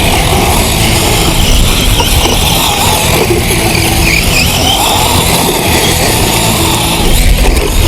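Sensored brushless X-Ray XB8 EC RC truck driven hard over desert dirt: the electric motor whine rises and falls along with tyre and dirt noise, getting louder near the end.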